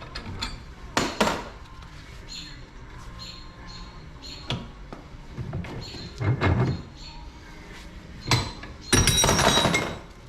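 Metal knocks and clanks from parts of a dirt bike's rear suspension linkage being worked loose and its old bearings taken out: four separate knocks, then a rattling clatter lasting about a second near the end.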